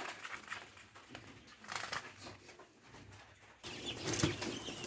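Caged quail shuffling and pecking with light clicks and scratches. About three and a half seconds in it turns suddenly louder, a rustle of wings with short high chirps.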